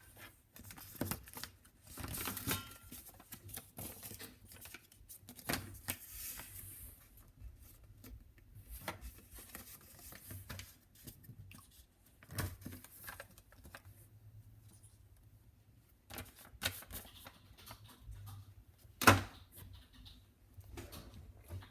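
A sheet of paper being handled and folded by hand: scattered short rustles, crinkles and clicks, with one sharp, loud tap a little after the middle.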